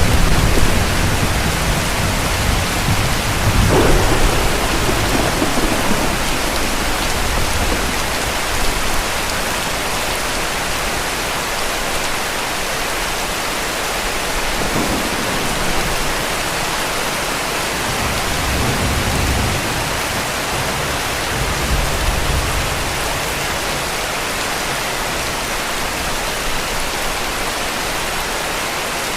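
Heavy rain falling steadily, with low rumbles of distant thunder, the strongest about four seconds in and fainter ones later.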